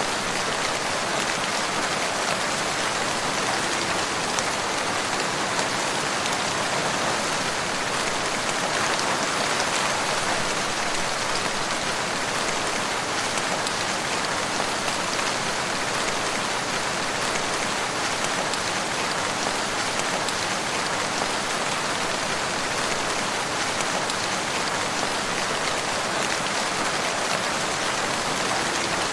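Steady rain falling on a surface, a dense, even patter of drops that holds unchanged throughout.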